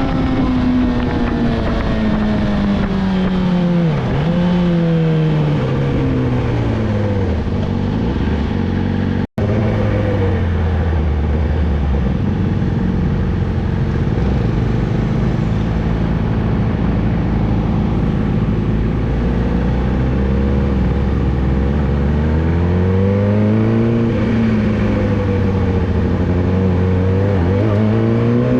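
Yamaha R6 inline-four through a Two Brothers full exhaust system, its engine note falling as the bike slows, with two brief dips on the way down. It holds low and steady for a while, then revs up again near the end. The sound cuts out for an instant about nine seconds in.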